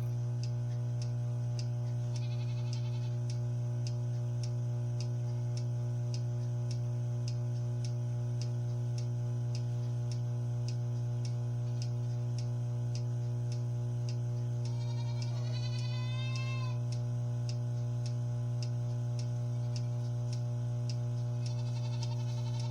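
Goat milking machine running: a steady electric hum from the vacuum pump with the pulsator ticking about twice a second. A goat bleats three times over it.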